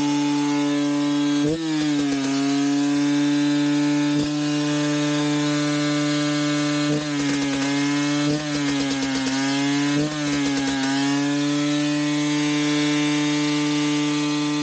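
KTM two-stroke dirt bike engine running steadily at high revs with an even, high buzz. A few times the revs dip briefly and pick back up.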